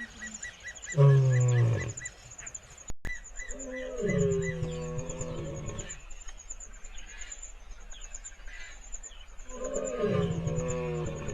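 African lion roaring in three separate bouts, each a low, pulsing, pitched call lasting one to two seconds. Insects chirp in a steady high rhythm behind it.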